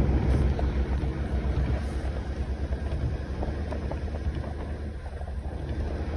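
Wind buffeting the microphone: a low, uneven rumble that rises and falls in quick gusts.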